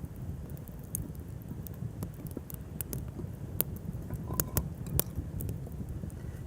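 Wood fire crackling: sharp irregular pops over a low steady rumble, the loudest pop about five seconds in.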